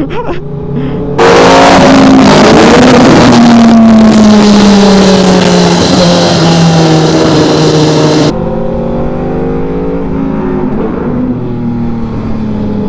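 Sport motorcycle engine running on the road with its revs slowly falling. A loud rushing noise comes in suddenly about a second in and cuts off about eight seconds in.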